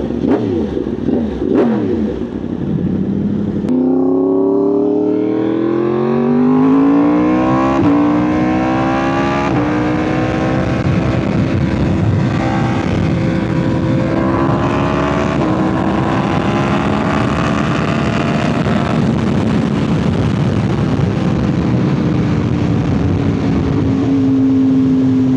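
2025 Yamaha R1's crossplane inline-four running through an SC Project titanium exhaust, accelerating hard with a rising note and shifting up twice in quick succession about eight and nine and a half seconds in. It then holds a steady, slightly wavering note at cruising speed.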